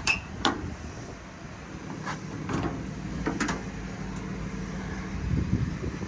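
Clicks and knocks from the metal compartment doors and latches of a truck service body being handled, a few at a time, over a steady low rumble.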